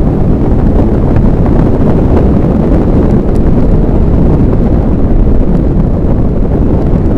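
Loud, steady wind buffeting the microphone, a low rumble with a moving vehicle under it.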